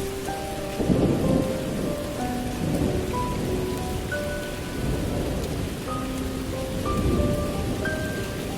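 Steady rain with rolling thunder, the loudest rumble about a second in and another near seven seconds, under sparse background music of slow single held notes.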